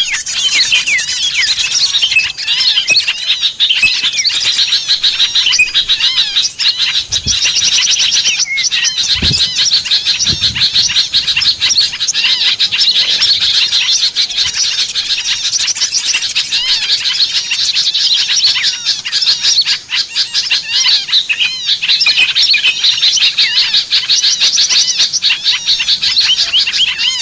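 A dense chorus of small songbirds chirping and twittering rapidly, many high calls overlapping without a break: a lure recording of small-bird calls played to draw small birds in. A few brief low thumps sound in the middle.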